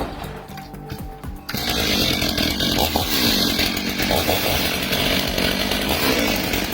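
Chainsaw running steadily, coming in loud about a second and a half in, over background music.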